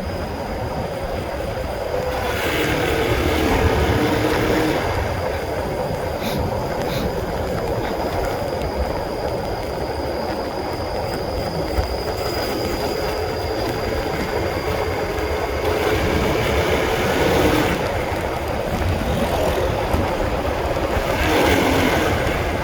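Honda CB150R's single-cylinder engine running under way, its pitch rising and falling with the throttle, with wind and road noise.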